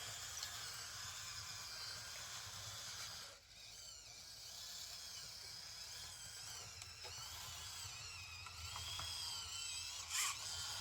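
Electric drive motors and gearboxes of a radio-controlled construction model whining as they run, the pitch wavering up and down with the throttle, with a short sharp noise near the end.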